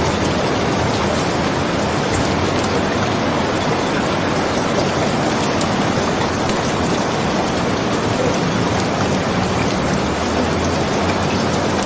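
Steady rainfall, an even hiss without a break, with faint scattered drop-like specks in it.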